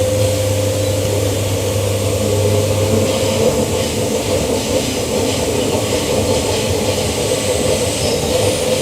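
Queensland Rail EMU electric train running, heard from inside the carriage: a steady rumble with a humming tone, the low hum dropping away about three seconds in.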